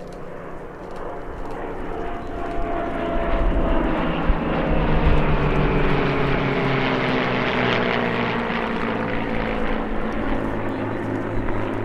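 World War II piston-engine fighter aircraft flying past low, the engine noise swelling to a peak about five seconds in, its pitch sliding down steadily as it passes, and staying loud afterwards.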